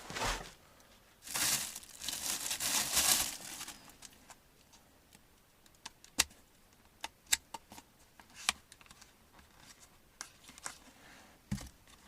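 Rustling and crinkling for about two seconds, then a handful of separate sharp clicks and taps.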